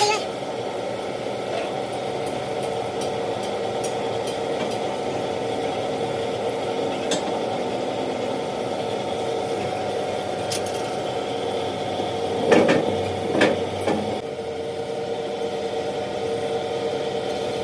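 Steady mechanical hum from a running engine or machine, with scattered light metallic clicks and two louder knocks about three-quarters of the way through.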